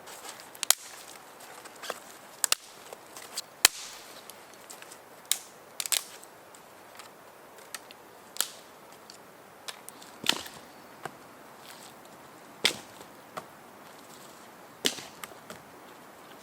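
Dry wood cracking and snapping: sharp, irregular cracks about once a second, a few of them loud with a short ring after.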